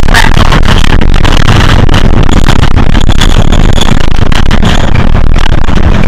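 Hino HS8JRVL city bus running along the road: a loud, steady diesel engine drone with frequent rattles and knocks.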